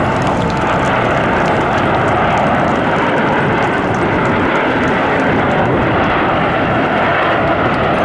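Aermacchi MB-339 PAN jet trainers' Rolls-Royce Viper turbojets in flight, a loud steady jet noise that holds without a break.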